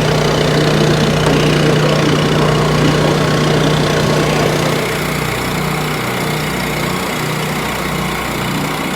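An engine running steadily at an even pitch, a little quieter from about five seconds in.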